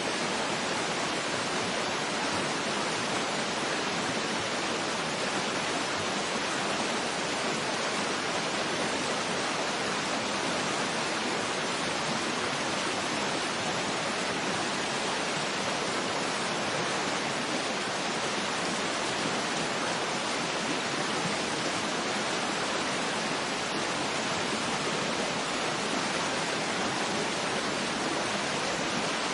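Waterfall rushing: a steady, even hiss of falling water with no breaks or changes.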